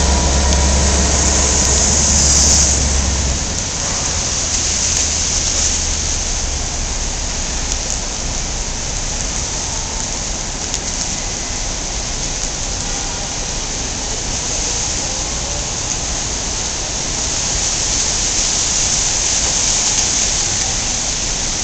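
Steady rain hiss on a city street. A low rumble sits under it for the first three seconds or so, then fades.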